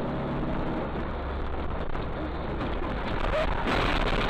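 Car driving: steady engine drone and road noise, swelling a little louder near the end.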